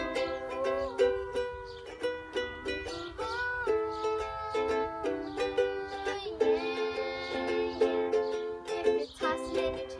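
Ukulele strummed in a steady rhythm, playing the song's chords, with a melody line gliding above them.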